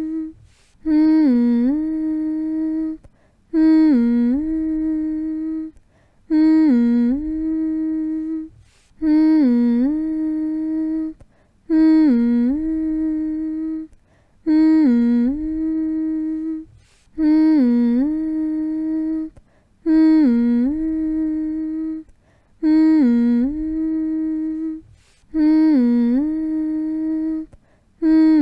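A person humming the same soothing phrase over and over, a lullaby hum for settling a baby to sleep. Each hum starts with a quick dip in pitch, holds one steady note for about two seconds, and breaks off briefly before the next, about every two and a half seconds.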